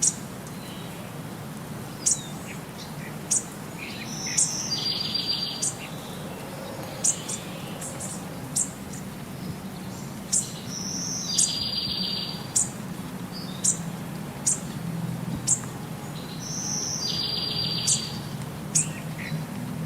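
Birds chirping: short, sharp high chirps about once a second, with a longer buzzy trill every six or seven seconds, over a steady low background noise.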